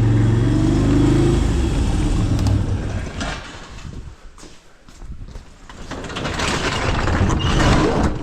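A vehicle engine running steadily, dying away about three seconds in; near the end a rustling noise swells up.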